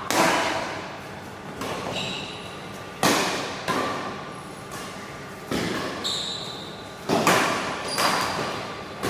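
Badminton rally: rackets striking the shuttlecock about seven times, a sharp hit every second or so, each echoing in an indoor hall. Short high squeaks come between the hits.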